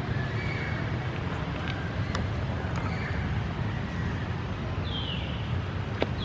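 Steady low rumble of wind on the microphone with a few faint clicks, and about five seconds in a short high squeal that falls in pitch: a baby monkey's cry.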